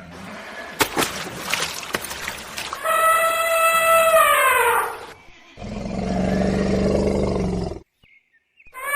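Horse whinnying: a long pitched call that falls in pitch, about three seconds in, after a few seconds of clicking and rustling. It is followed by a lower, rough steady sound that cuts off suddenly near the end.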